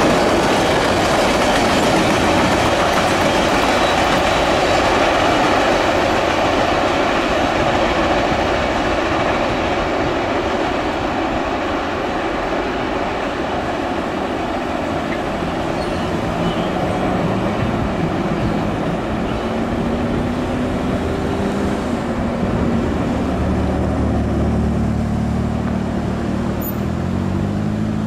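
Freight cars rolling past on the rails, a steady rushing wheel noise. From about halfway the engine of an approaching diesel locomotive comes up under it, its note stepping higher and louder near the end.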